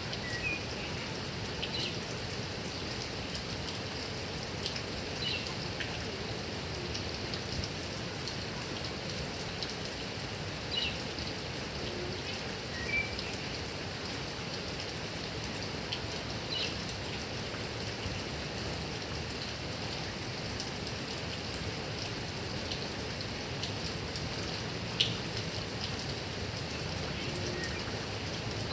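Heavy rain falling steadily, a constant hiss, with scattered louder drop hits; the sharpest comes near the end.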